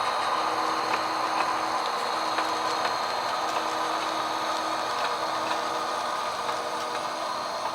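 HO scale model train running along the layout track: a steady mechanical hum with scattered light clicks of the wheels over the rail.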